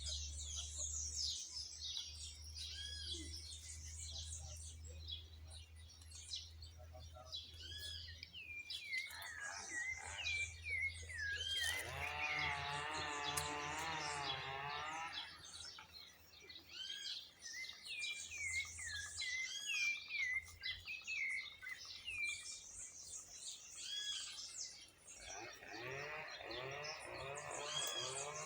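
A sabiá thrush singing among several other birds chirping and calling at once, a dense mix of short whistled notes. A louder wavering call with many overtones stands out from about twelve to fifteen seconds in, and another comes near the end.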